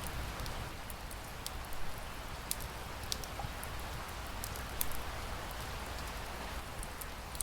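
Steady rain falling, with a fireplace fire crackling: an even hiss broken by scattered sharp pops and ticks.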